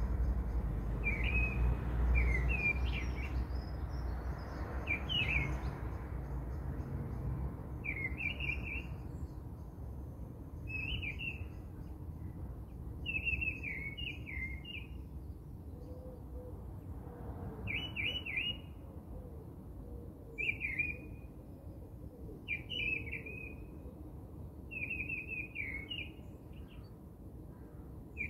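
A songbird chirping in short, quick phrases about every two seconds, over a low rubbing noise that is strongest in the first five seconds or so.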